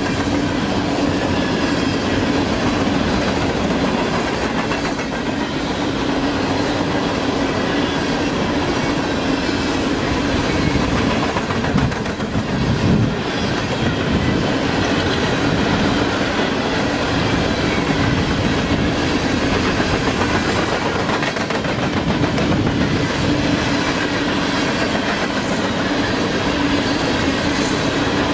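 Freight train of open-top hopper cars passing at speed: steady, loud rolling noise of steel wheels on rail.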